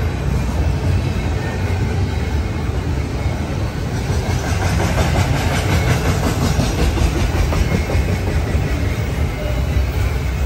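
Double-stack container train's well cars rolling past, a steady low rumble of wheels on rail. A regular clicking of wheels over the rails comes in about midway and fades near the end.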